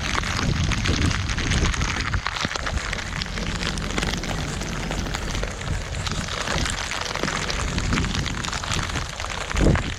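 Steady rain falling, many drops pattering close by, with a low rumble underneath. A short, loud low thump comes near the end.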